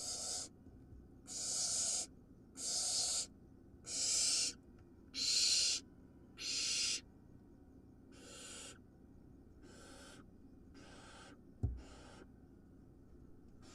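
Barn owl nestling giving harsh hissing begging calls, the nestlings' food-begging call, repeated about once a second. The first six are loud and the later ones grow fainter. A short low thump comes near the end.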